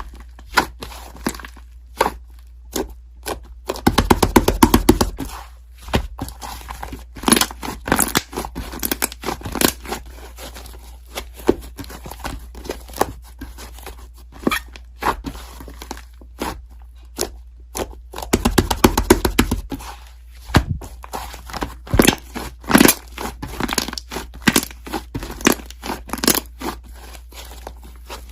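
Paper being handled close up: many taps and rustles, with two longer bursts of crinkling and tearing, about four seconds in and again about eighteen seconds in.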